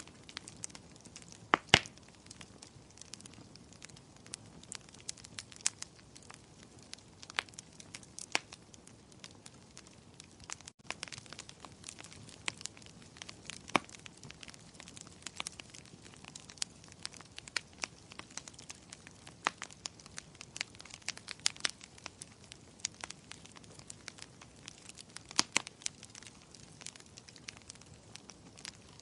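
Fireplace fire crackling: frequent sharp pops and snaps, irregularly spaced, over a soft hiss of burning, with a loud pop a couple of seconds in. The sound cuts out for an instant about a third of the way through.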